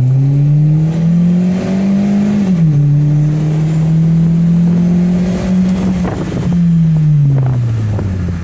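Car engine and exhaust accelerating: the pitch rises, drops at an upshift about two and a half seconds in, holds steady, then falls as the car slows near the end.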